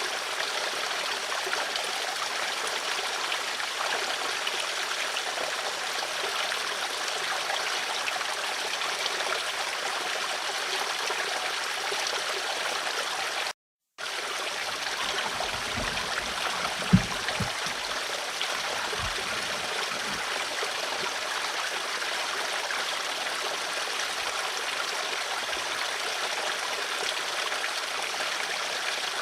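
Steady rushing and trickling of a flowing stream. About 14 s in it cuts out completely for a split second, then comes back with a few low knocks, one sharp one about 17 s in.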